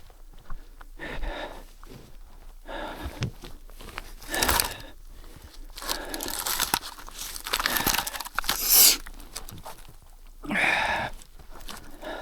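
Crunching footsteps through deep snow, uneven, each crunch a second or two apart, with a louder run of crunches in the middle.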